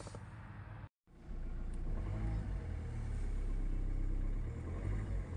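Hyundai Creta engine running at a steady idle, started on a newly programmed key. The sound cuts out briefly about a second in, then the low idle hum carries on steadily.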